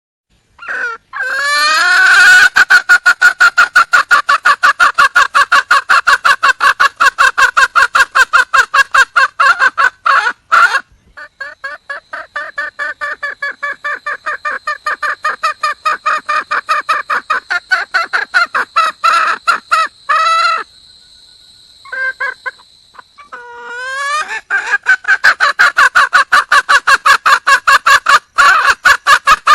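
Red junglefowl hen giving her mate-seeking call: a rapid, even string of cackling clucks, about five a second. It is loud at first, softer through the middle, breaks off for a couple of seconds, then comes back loud.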